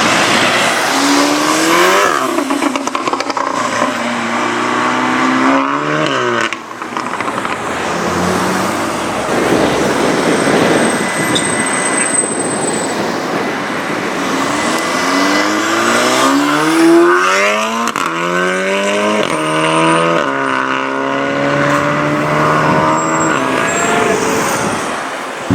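Turbocharged 2.0-litre four-cylinder of a Stage 3 tuned VW Golf R 7.5, with a decat Milltek downpipe, accelerating hard several times. The pitch climbs steeply and falls back at each gear change, with a few exhaust crackles between pulls.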